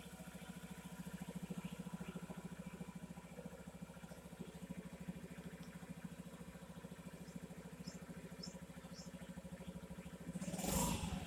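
Honda Ruckus scooter's small 49 cc four-stroke single-cylinder engine idling with a steady, even putter. A brief louder rush of noise rises near the end.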